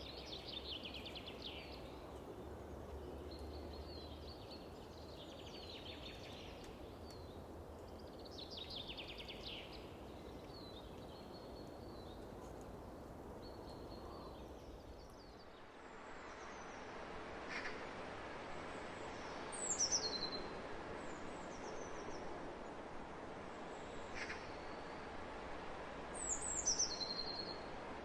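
Songbirds singing in open countryside over a steady background rush: trilled phrases repeat in the first half, and later a clear whistled call slides downward in pitch twice, the loudest sounds, among short chirps.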